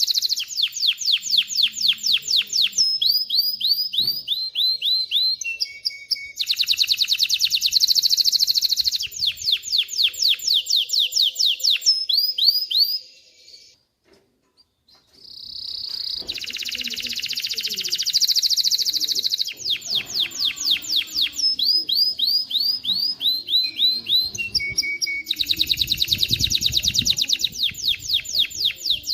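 Male domestic canary singing: long rolling trills of rapidly repeated high notes, phrase after phrase, each phrase changing its speed and pitch. The song stops for about two seconds midway, then starts again.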